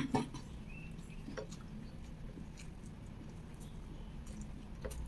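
Close-miked chewing of soft sticky rice and shredded beef serundeng, with small wet mouth clicks. A couple of sharper clicks come right at the start, and fingers pick at the food on the plate.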